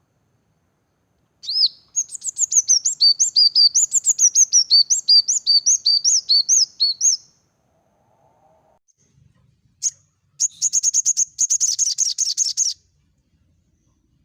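Small songbirds singing: a fast run of sharp, high up-and-down notes lasting about six seconds, then after a pause a single note and a short, very rapid high trill.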